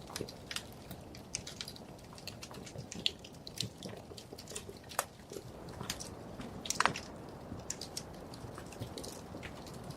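Wood fire crackling in a fireplace: irregular sharp pops and snaps over a low, steady rumble of flames, with one louder snap about seven seconds in.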